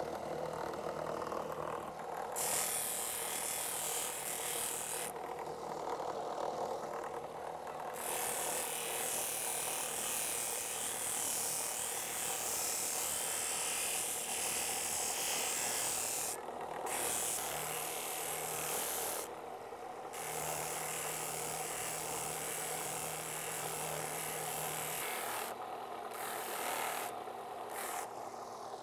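Power tool cutting or sanding zapote wood offcuts, running steadily with a low motor hum; its high hiss drops away and comes back several times.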